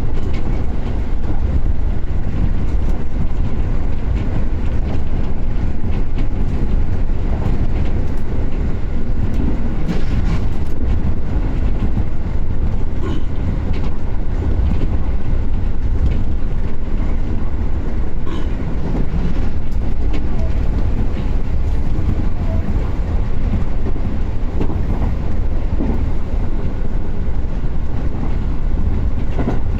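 Commuter train running between stations, heard from inside the car: a steady low rumble with occasional faint clicks.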